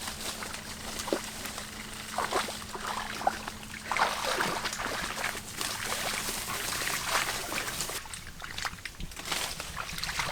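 Water sloshing and splashing in irregular bursts, such as shallow floodwater being disturbed, with a faint steady low hum underneath.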